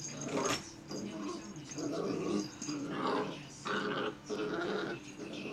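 Black Labrador puppy growling in play, in a series of short rough bouts.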